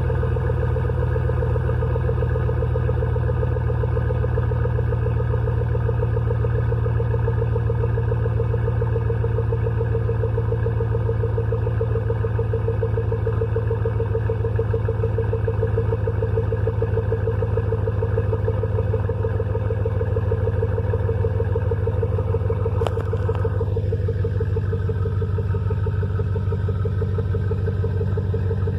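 2003 Cadillac Escalade's 5.3 L Vortec V8 idling steadily shortly after a cold start, heard through a Cherry Bomb Extreme single-chamber muffler with a turn-down and big tip. About two-thirds of the way in there is a brief click, after which the higher part of the exhaust note is a little quieter.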